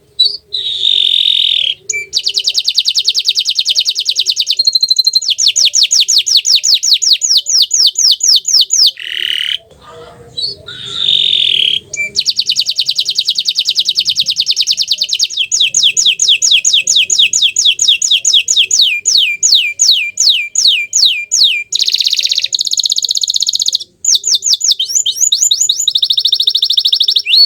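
Domestic canary of the bottle-green (hijau botol) colour variety singing a long, loud song of rapid trills and rolls, the repeated notes changing speed from tour to tour. Short pauses come about ten and twenty-four seconds in.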